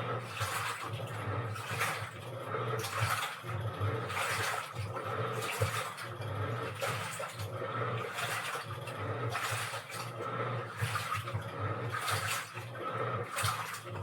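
Washing machine running a wash cycle: water sloshing in the drum in surges about once a second over a steady motor hum.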